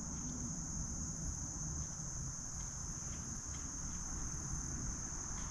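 Insects trilling in one steady, unbroken high-pitched drone, with a low rumble underneath.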